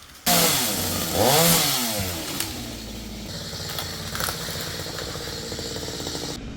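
Stihl two-stroke chainsaw revved twice, the pitch rising and falling each time, then running on at a steadier, lower speed.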